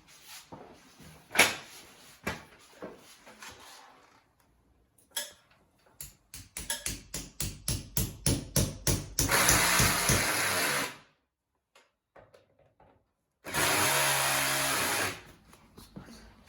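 A power drill run in a quick series of short trigger bursts, then held on for two longer runs of about two seconds and a second and a half with a pause between. Some knocks and clicks of handling come before it.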